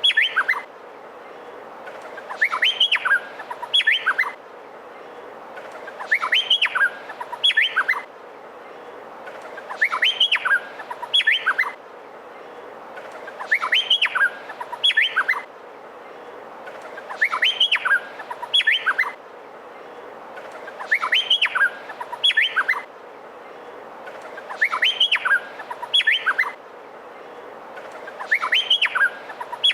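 Male Meliphaga honeyeater (cucak pantai) singing the same short phrase over and over, about once every four seconds: each phrase is a quick run of rising whistled notes, over a steady background hiss.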